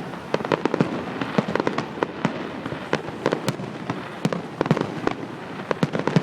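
Fireworks display: many bangs and crackles in rapid, irregular succession, overlapping over a steady rumble of bursts.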